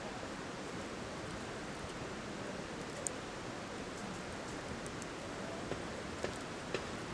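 Wood fire crackling: a steady hiss with a few sharp pops, one about three seconds in and several close together near the end.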